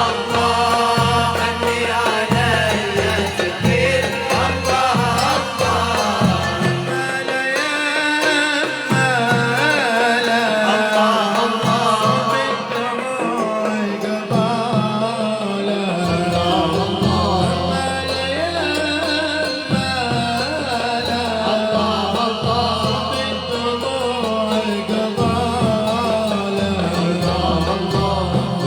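Malouf ensemble performing: voices singing a melody over hand-drum percussion. The drums drop out for several seconds in the middle and then come back in.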